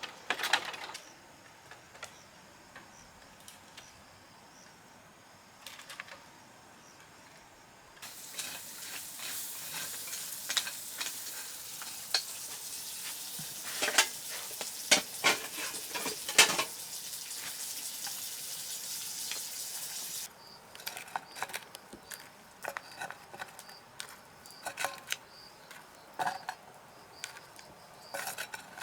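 Food frying in a pan, sizzling steadily while a utensil stirs and clinks against the pan. The sizzle starts abruptly about a third of the way in and cuts off about two-thirds through, with scattered clinks and knocks before and after it.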